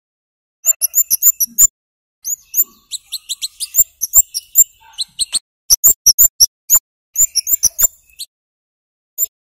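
Scarlet-headed flowerpecker (cabai jawa, kemade) giving quick runs of sharp, very high 'cit' chips in several bursts, with short pauses between them. It is a lure call of the kind played to prompt young captive birds to start calling.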